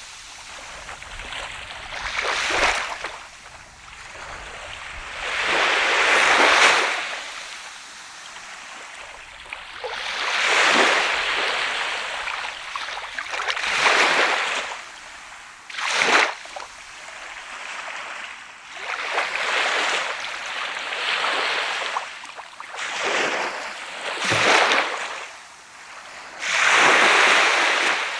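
Sea waves breaking on a sandy beach, each surge of surf swelling and washing back every few seconds, with a few sharper slaps of breaking water, one about sixteen seconds in and another near twenty-four seconds.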